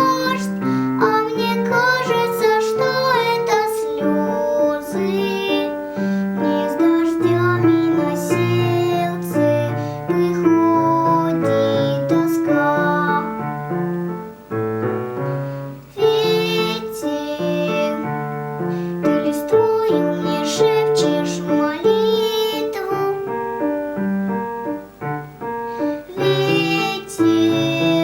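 A young girl singing a slow Russian song with vibrato, over piano accompaniment. The voice pauses twice, leaving the piano alone for a few seconds.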